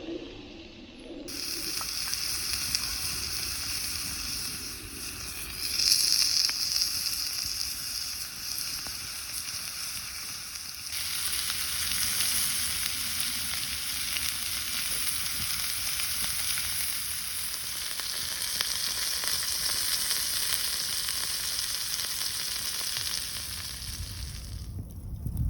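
Meat frying and sizzling over heat. A steady hiss that starts about a second in, swells briefly around six seconds, and stops just before the end.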